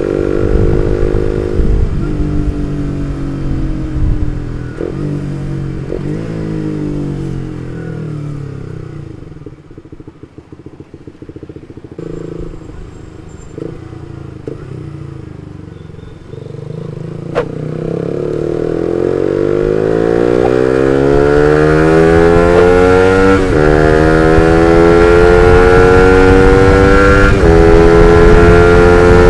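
Suzuki GSX-R150's single-cylinder engine through an aftermarket R9 Misano exhaust, winding down off the throttle for about ten seconds, then running low near idle for several seconds. After a sharp click it pulls away and climbs through the gears, the pitch rising and dropping back at each of two upshifts near the end.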